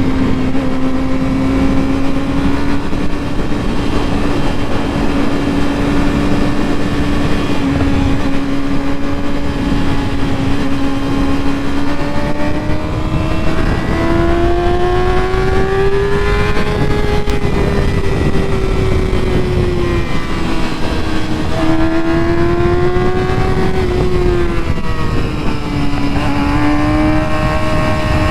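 Motorcycle engine running at road speed. Its note holds steady for the first dozen seconds, then rises and falls as the throttle opens and closes, with sudden drops in pitch about two-thirds of the way in and again a few seconds later, over a steady rush of wind noise.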